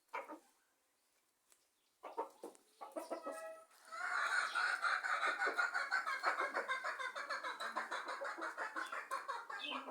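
Backyard chickens clucking: a few scattered calls, then from about four seconds a dense run of quick, overlapping clucks.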